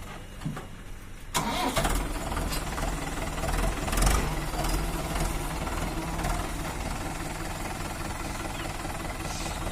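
Tractor's diesel engine running low and steady, then much louder about a second and a half in, and running on steadily.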